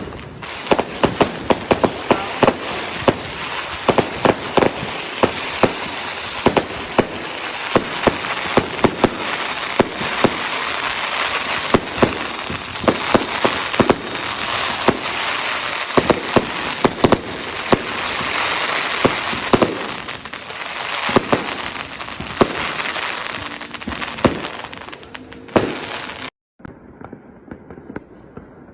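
Fireworks and firecrackers going off without pause: a dense crackling with frequent sharp bangs. Near the end the sound cuts off suddenly and gives way to a quieter, duller stretch with scattered pops.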